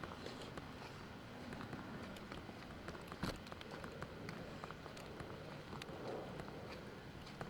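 Footsteps of someone walking outdoors, with scattered small clicks and one louder knock about three seconds in.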